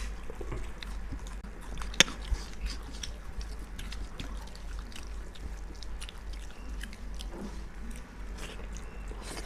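Close-up eating sounds: chewing with many small wet clicks and smacks, and one sharper click about two seconds in, over a steady low hum.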